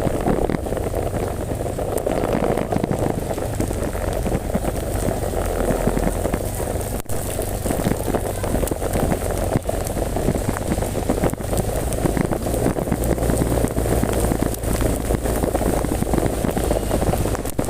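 Heavy rain falling steadily in a dense, continuous patter, with a low rumble underneath.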